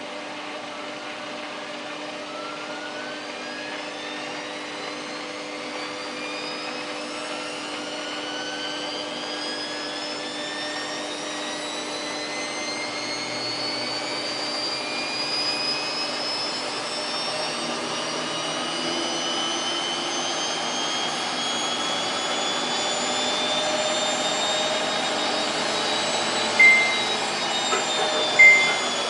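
Samsung WF8804RPA washing machine spinning up in its service test cycle: the drum motor's whine rises steadily in pitch and grows louder as the spin speed builds. Two short beeps sound near the end.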